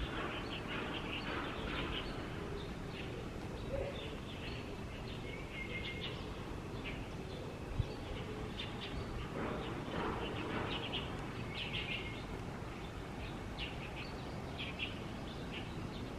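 Small birds chirping, short high calls repeated on and off, over a steady low background of outdoor noise.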